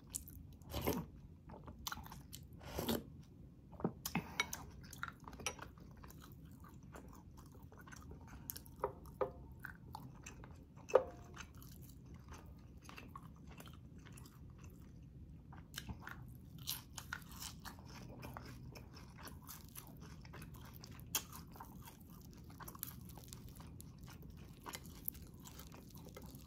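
Close-up mouth sounds of eating: chewing and biting with irregular crunches, on fried milkfish (daing na bangus) and mung bean soup. A few louder bites fall in the first few seconds and one about eleven seconds in.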